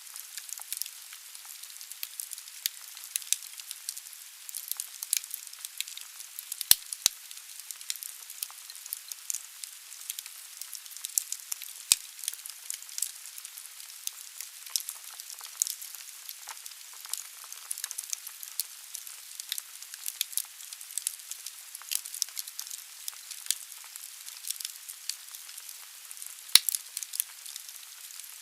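Wood fire burning in a fireplace: steady hiss of the flames with continual dense crackling from the burning logs, and a few louder pops.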